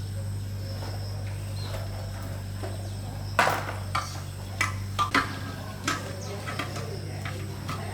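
Sharp metal clinks and knocks from hand tools on diesel engine parts, about half a dozen close together in the middle, over a steady low hum.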